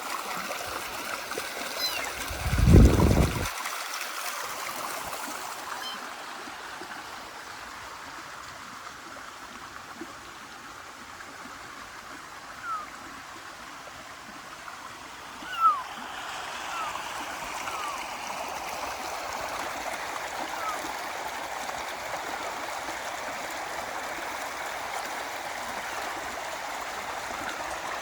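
Steady running water. A loud low thump about three seconds in, and a few faint short chirps later on.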